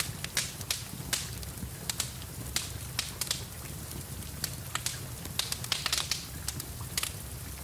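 Wood fire crackling in a fireplace, with irregular sharp pops and snaps several times a second, over a steady hiss of rain.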